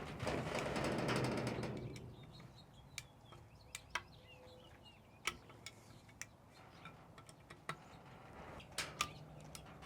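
A torque wrench ratchets with a quick run of fine clicks for about the first two seconds as the front screws are tightened. After that come scattered light metal clicks and knocks from the tool and parts being handled.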